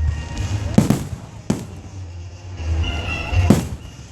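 Aerial fireworks shells bursting: three sharp bangs, the first about a second in, the next half a second later, and the third near the end, each trailing off in a short echo over a steady low rumble.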